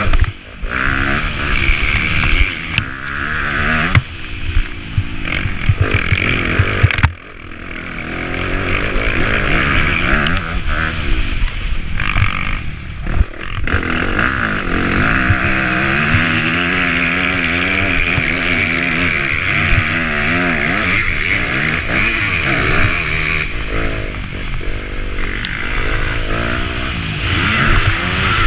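Motocross bike engine revving hard and easing off again and again, its pitch rising and falling with the throttle. About seven seconds in the throttle shuts and the engine drops away briefly before winding back up, with a few sharp knocks from the bike here and there.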